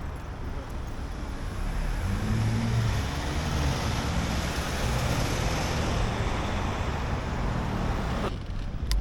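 Road traffic: a motor vehicle's engine hum and road noise swell about two seconds in and hold steady, then drop away abruptly near the end.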